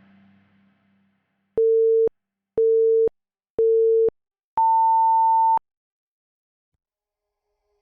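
Workout interval timer counting down: three short beeps a second apart, then one longer beep an octave higher, the countdown pattern that signals go for the next exercise.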